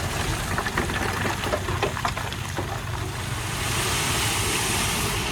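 Heavy diesel earthmoving machinery running steadily, with scattered clicks and knocks over the first few seconds. A rushing hiss builds up past the middle and fades near the end.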